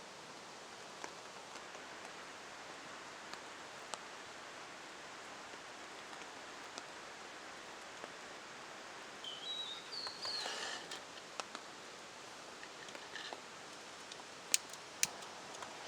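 Steady light rain hissing, with scattered drops tapping. A short bird chirp comes about nine to ten seconds in, and a couple of sharp taps come near the end.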